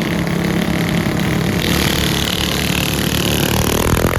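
Mini bike engines running hard during a race, with a higher-pitched engine whine joining about halfway through.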